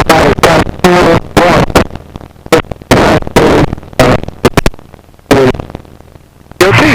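Broken aircraft radio transmission in the headset: about a dozen short bursts of garbled voice and static, each cutting off abruptly, coming thick at first and spacing out toward the end.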